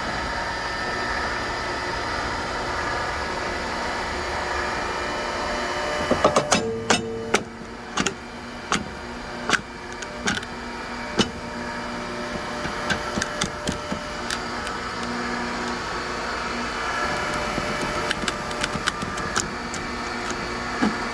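A single-phase electric hydraulic log splitter's gear pump runs with a steady hum as the blade is forced through a log. About six seconds in, a run of sharp cracks and snaps starts as the wood splits. The cracks thin out, then come again thickly near the end.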